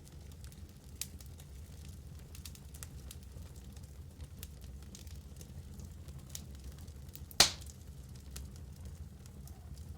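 Wood fire burning in a fireplace: logs crackling with scattered small pops over a low steady rumble, and one loud sharp pop about seven and a half seconds in.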